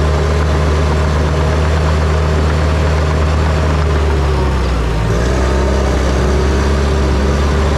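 John Deere dozer's diesel engine running steadily with a deep drone, its note shifting slightly about halfway through.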